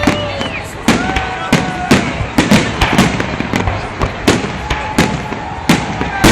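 Fireworks display: a rapid, uneven series of sharp bangs from bursting aerial shells, roughly two a second.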